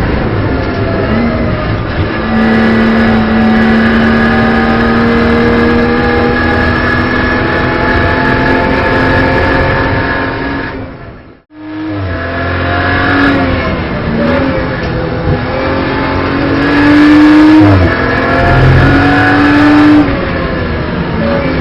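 Race car engine heard from inside the cockpit of a BMW M240i Racing Cup car, a turbocharged straight-six, holding steady revs for about ten seconds. The sound fades out briefly about halfway through. It comes back with the revs climbing and dropping through several gear changes.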